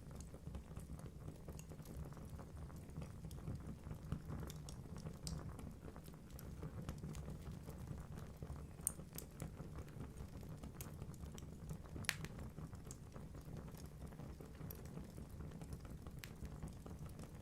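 Wood fire burning in a fireplace: a low steady rumble of flames with irregular sharp crackles and pops from the logs, two louder pops about 9 and 12 seconds in.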